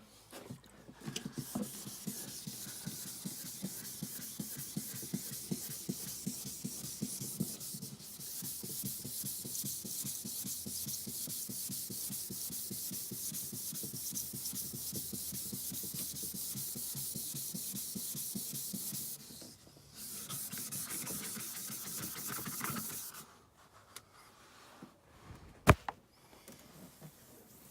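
Plastic headlight lens being sanded by hand with fast back-and-forth strokes, a steady scratchy rubbing that breaks off briefly about two-thirds of the way through, resumes, then stops. A single sharp click near the end.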